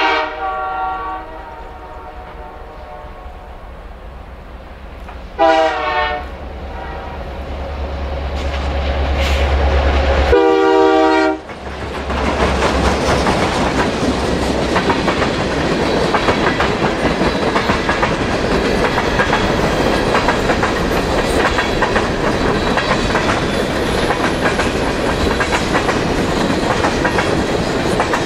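Canadian Pacific diesel freight locomotives sounding their multi-tone air horn in three short blasts for a level crossing, the engines' deep rumble swelling as they pass. After the third blast, freight cars roll by with steady wheel clatter on the rails.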